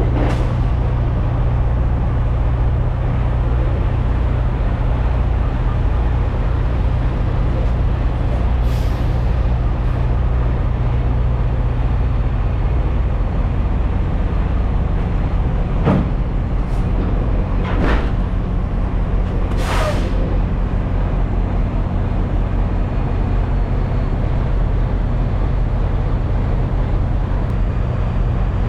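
Semi-truck diesel engine running steadily, heard from inside the cab. Three short, sharp sounds come about two seconds apart past the middle, the last the brightest.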